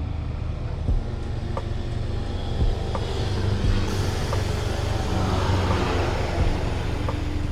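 Air suspension of a Toyota Corolla Altis airing out: a hiss of air venting from the bags swells from about three seconds in and fades near the end as the car drops. Under it the engine idles steadily, with a few short clicks.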